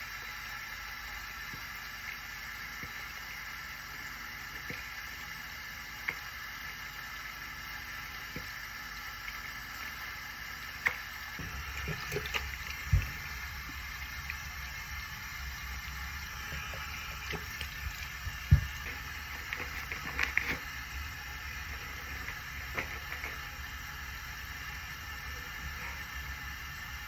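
Water at a bathroom sink, with a steady hiss underneath and a handful of sharp clicks and knocks of small items being handled, mostly in the middle.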